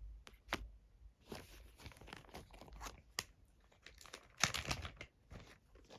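Plastic packaging being crinkled and handled: a run of irregular crackles, loudest a little past the middle.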